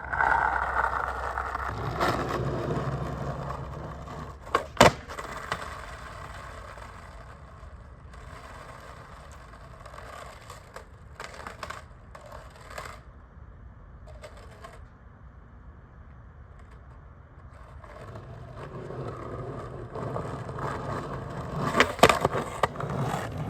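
Skateboard wheels rolling on pavement, fading into the distance and then coming back closer, with sharp clacks of the board about two and five seconds in and a cluster of clacks near the end.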